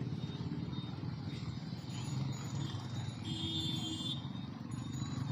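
Motorcycle engine running steadily under way, picked up by a mic inside the rider's helmet with a hiss of rushing air. A short higher-pitched tone sounds for under a second a little past the middle.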